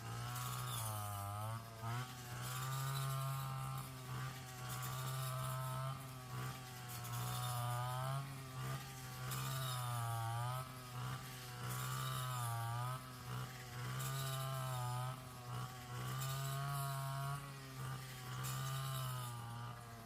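A small petrol engine running, its pitch dipping and rising again every second or two as it is loaded and eased off.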